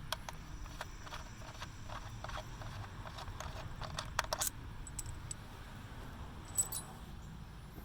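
Scattered light metallic clicks and clinks of a 10 mm socket wrench and small bolts, coming close together about four seconds in, with a sharper tick or two later.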